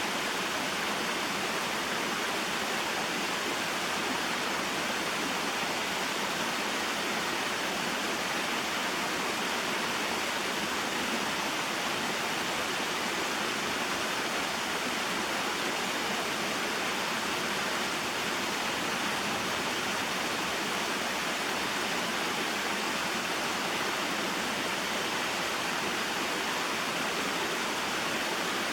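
Small waterfall and stream, water falling and flowing in a steady, unbroken rush.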